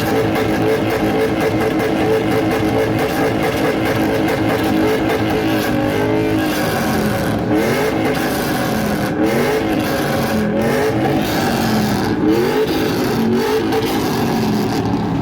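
Car engine revved hard in a rev competition: held steady at high revs for the first several seconds, then blipped up and down repeatedly, about one rev every second and a half.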